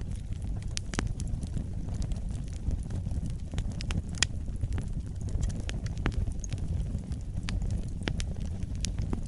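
Wood fire burning in a fireplace: a steady low rumble with scattered sharp crackles and pops, one every second or so.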